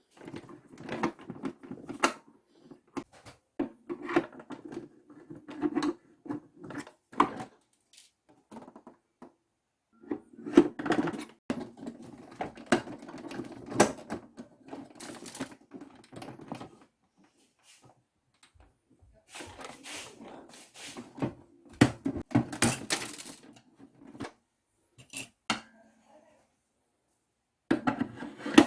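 Irregular clicking and clattering of a plastic toy washing machine being handled and worked on, with short pauses.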